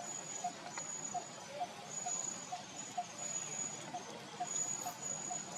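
Outdoor animal sounds: a short call repeated evenly about twice a second, with a high thin whine, like insects, coming and going above it.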